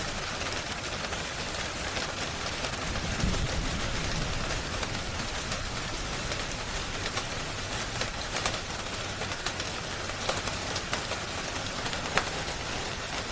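Steady rain with scattered sharp crackles and ticks through it, and a short low rumble about three seconds in.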